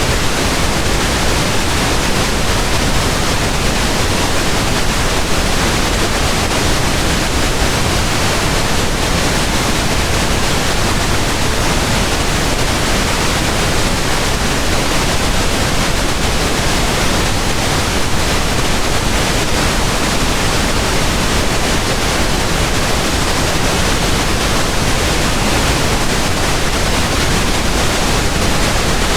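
Steady pink noise: an even, unchanging hiss across the whole range, loud and constant throughout.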